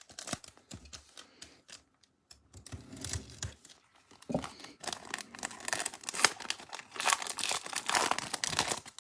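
A Bowman Platinum trading-card pack being torn open and its wrapper crinkled: irregular crackling and rustling, sparse at first and thicker over the second half.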